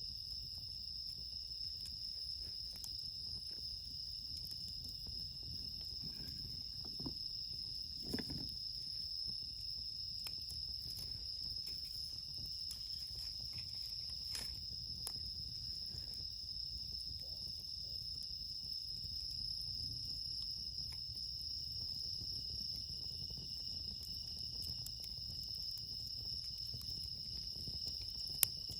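Crickets chirping in a steady, high-pitched chorus, with a few sharp snaps from a wood campfire.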